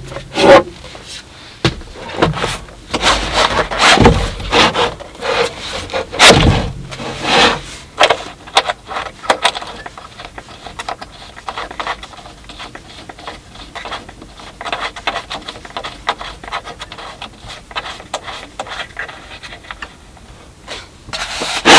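Irregular scraping, rubbing and knocking of things being handled, with a few louder strokes in the first seven seconds and then lighter clicks and scrapes.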